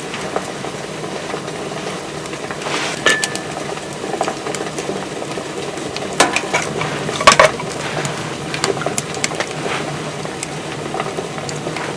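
Cooking sounds: a steady hiss of food cooking, with scattered clinks and knocks of a utensil against a pot or pan, the loudest a few seconds in and again about halfway through.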